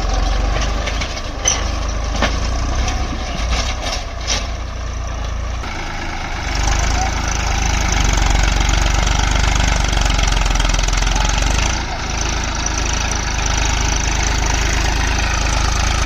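Massey Ferguson 241 DI tractor's three-cylinder diesel engine running steadily, with a few sharp clicks in the first few seconds. The engine gets louder about six seconds in and dips briefly near twelve seconds.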